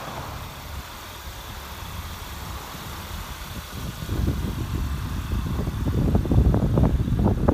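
Kia Soul engine idling with the hood open, running off a jump box clamped to its dead battery. About four seconds in, a louder, irregular low rumbling comes in over the idle.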